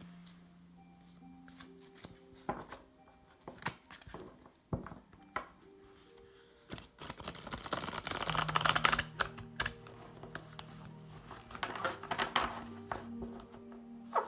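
A deck of tarot cards being handled and shuffled over soft background music with sustained notes: scattered card taps and clicks, with a longer rustling shuffle about halfway through and a shorter one a few seconds later.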